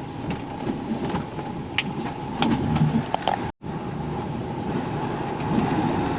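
Inside a heavy goods vehicle's cab: the diesel engine running with steady rumble and light knocks and rattles, cut off for a split second about halfway through.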